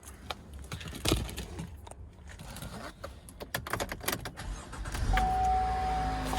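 Clicks and rattles of keys and handling, then about five seconds in a car engine starts and settles into a steady idle with a constant whine over it: an early-morning cold start.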